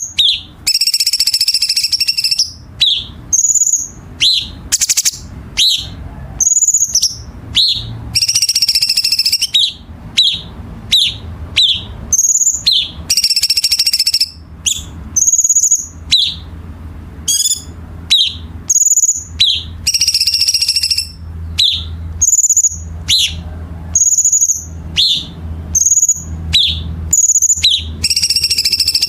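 Cucak cungkok singing a sharp, rapid string of calls: short whistled notes alternating with harsh, rasping bursts, one to two a second without pause. A faint low hum runs underneath.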